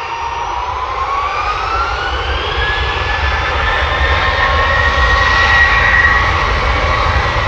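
Jet airliner engines spooling up: a whine rises in pitch over the first few seconds, then holds steady over a low rumble that slowly grows louder.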